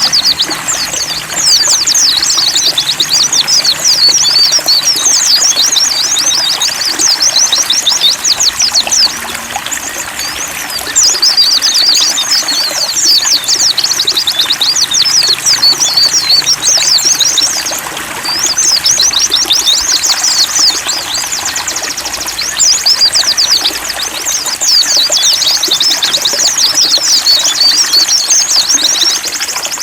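Pleci (white-eye) songbirds twittering in rapid, high, overlapping phrases almost without pause, over steadily trickling water. The song breaks off briefly about ten, eighteen and twenty-four seconds in.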